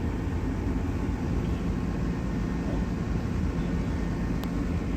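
A vehicle engine running with a steady low rumble, with a single short click near the end.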